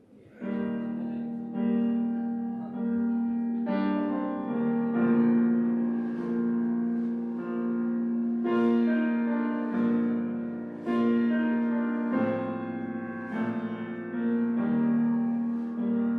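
Piano music playing slow, held chords that change every second or two, starting about half a second in.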